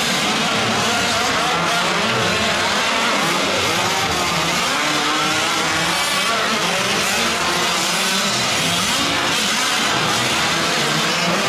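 Several 1/5-scale RC trucks' small two-stroke gas engines racing together, their pitches rising and falling as they rev through the track, over the noise of tyres on dirt.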